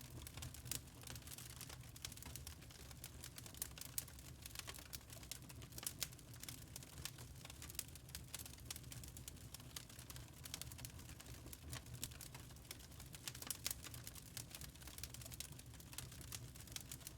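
Wood fire crackling in a fireplace: irregular sharp snaps and pops from burning logs over a steady low rumble of the flames.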